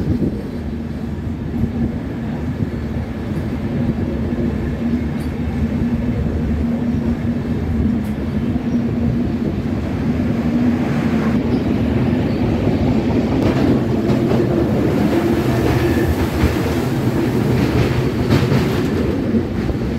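Passenger train with LHB coaches running along the track, heard through an open coach doorway: a steady rumble of wheels on rails with clickety-clack. About halfway through it grows louder and harsher, with more rattling, as the train enters a tunnel.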